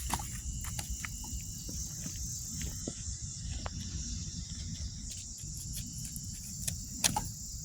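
Insects chirring steadily outdoors, with a low rumble underneath and a few scattered clicks, the loudest about seven seconds in.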